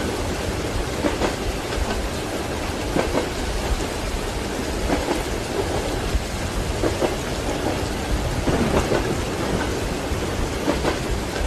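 Steady rain with a low thunder rumble, mixed with train wheels knocking over rail joints about every two seconds.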